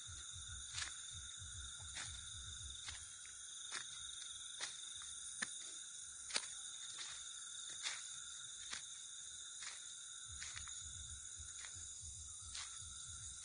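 Night insect chorus of steady, high-pitched trilling, crickets among them, with irregular sharp clicks every half second or so.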